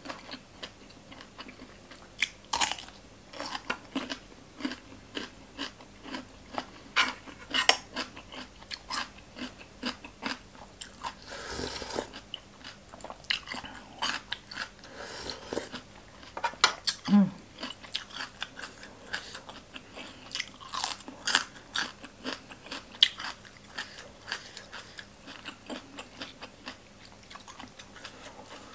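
Close-miked eating sounds: many sharp crunches and chewing of crisp raw vegetables. Near the middle come a couple of longer, hissing slurps of broth from a spoon.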